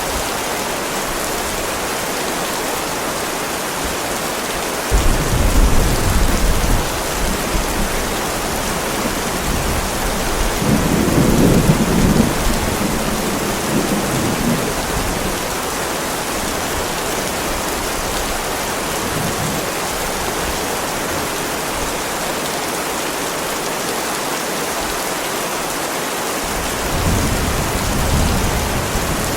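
Heavy rain falling steadily on a driveway. Low rolls of thunder swell up about five seconds in, again around eleven to fourteen seconds in, and near the end.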